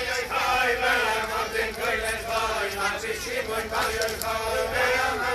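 A crowd of men chanting a praise song together, many voices singing in unison.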